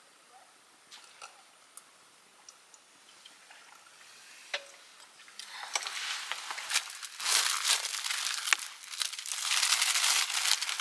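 Dry crackling and crinkling: a few faint scattered clicks at first, then from about halfway a dense, loud crackle in two long stretches.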